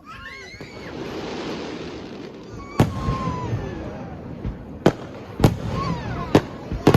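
Fireworks going off: a rising hiss for the first two seconds or so, then a run of sharp bangs starting about three seconds in, coming closer together toward the end with two almost at once near the close.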